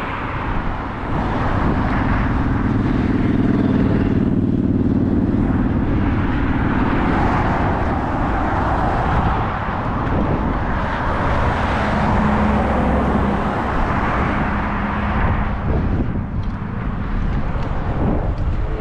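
Motor traffic passing on a road, heard from a moving e-bike, with a steady rush of wind and road noise. Vehicle engine hum swells and fades as cars go by, loudest a few seconds in and again past the middle.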